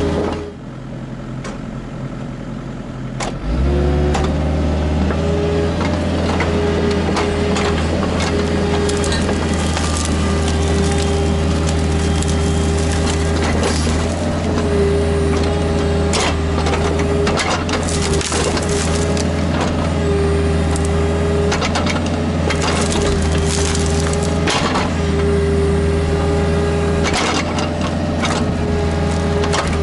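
Kubota KX121-3 mini excavator's diesel engine dropping to a lower speed, then throttling back up about three seconds in and running steadily under load. A hydraulic whine comes and goes over it, with repeated cracks and crunches as the machine works.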